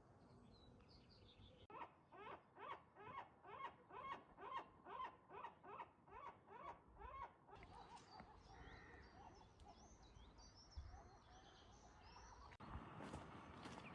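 A bird calls in a long series of repeated, evenly spaced notes, about three a second, then stops. A small songbird follows with thin, high twittering. Near the end a faint crunching, rustling noise sets in.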